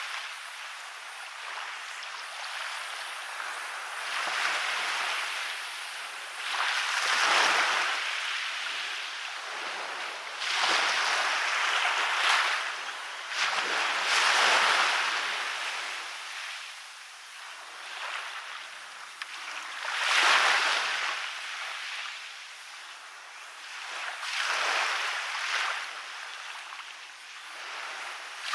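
Small sea waves breaking and washing up a beach one after another, the rush of water swelling and fading every few seconds.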